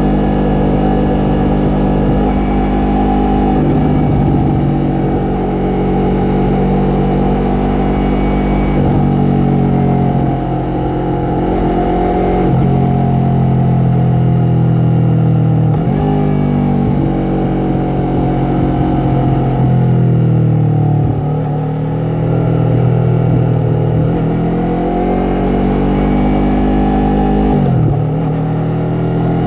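Yamaha MT-03's 321 cc parallel-twin engine and exhaust under way, its pitch climbing and falling again and again, with sharp drops several times as the throttle closes or the rider shifts gear.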